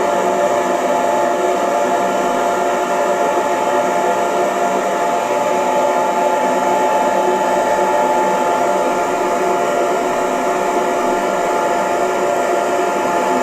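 Electric hair dryer running steadily: an even rush of air with a steady motor whine.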